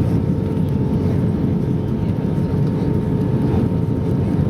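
Steady cabin noise inside an Airbus A320 airliner in flight on approach: a deep rumble of engines and airflow with a faint steady hum tone over it.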